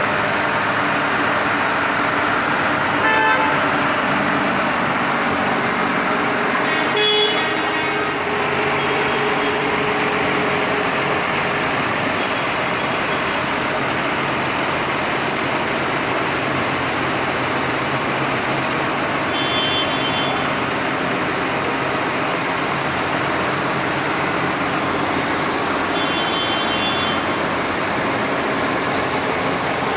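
Tractor engines running steadily as a line of tractors passes, with a few short horn toots, the loudest about three and seven seconds in.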